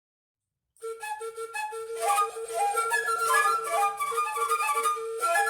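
Four flutes improvising together: one repeats a short note over and over while the others come in with quick, overlapping higher phrases. The playing starts after about a second of silence.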